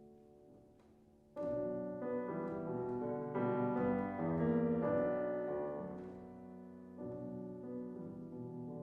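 Piano playing classical music. A soft held chord dies away, then about one and a half seconds in a loud chord opens a fuller passage that swells and then eases off. A new phrase starts near the end.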